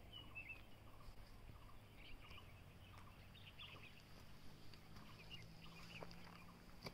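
Faint bird chirps and short calls, scattered irregularly, over a low steady hum.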